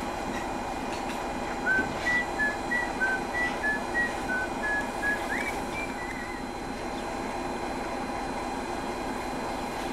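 Steady hum of a diesel train. Over it, from about two seconds in to about six seconds in, a run of about a dozen short whistled notes alternating between two pitches at about three a second, ending in a quick upward slide.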